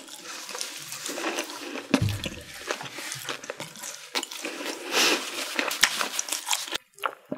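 Close-miked wet chewing and mouth sounds of a person eating, with many small clicks and squelches and a soft low thump about two seconds in.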